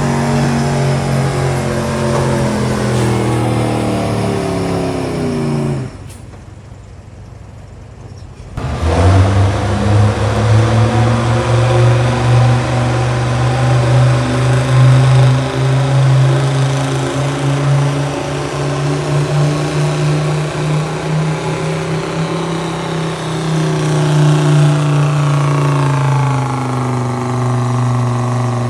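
Showroom stock gas pickup truck's engine running hard at high revs under the load of a pulling sled, its pitch sagging as it bogs down. It drops away about six seconds in, then comes back loud and held high for a long pull before easing off near the end.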